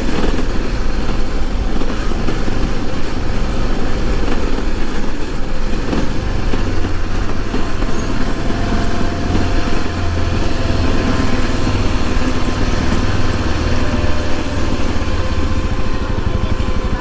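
Motorcycle engine running steadily while riding at low speed, with road noise.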